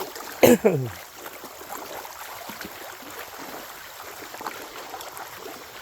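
Shallow creek water running, with small splashes of someone wading in it. A short spoken exclamation comes about half a second in.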